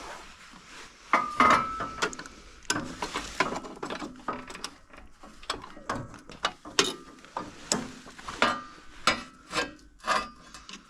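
Hand tools working on metal snowblower parts: a run of irregular clicks, clanks and knocks, some with a short metallic ring.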